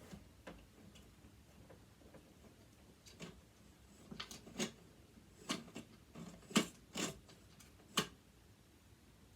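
Irregular sharp clicks and taps of hand tools against a sewing machine's metal parts while working a stuck part loose. A few faint clicks at first, then a denser run of louder ones from about three seconds in.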